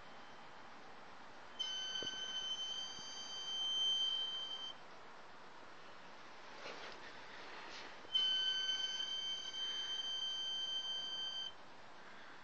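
High-pitched steady tone from the engine of a 2012 BMW 535 with the engine shut off. It sounds twice, each time for about three seconds, with a pause of a few seconds between.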